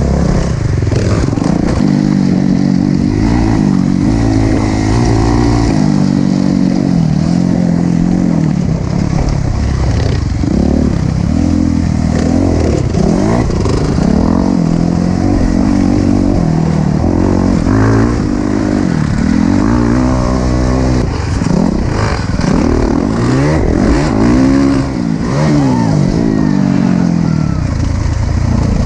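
Motocross dirt bike engine revving hard, its pitch repeatedly climbing and dropping as it accelerates, shifts and backs off.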